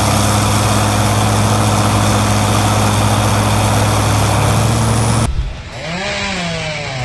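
Tractor engine running steadily at a constant speed for about five seconds, then cut off abruptly and replaced by a quieter sound whose pitch swoops up and down over and over.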